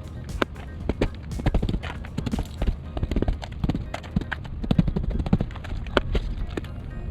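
Irregular sharp knocks of a flashlight striking ice on a frozen car door to chip it free, several a second.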